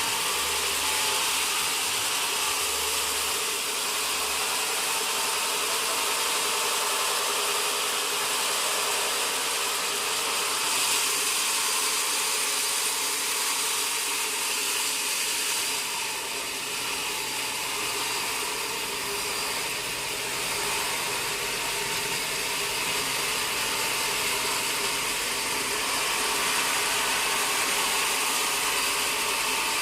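Sawmill machinery running steadily: a continuous motor noise with a strong hiss that holds level throughout.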